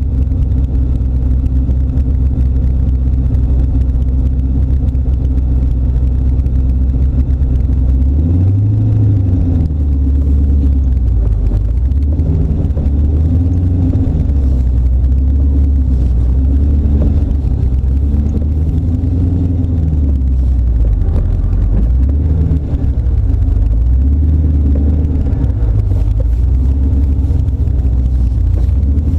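Turbocharged LS1 V8 of an AC Cobra running at low speed. A steady idle for about the first eight seconds, then the engine note rises and falls again and again under light throttle as the car creeps along.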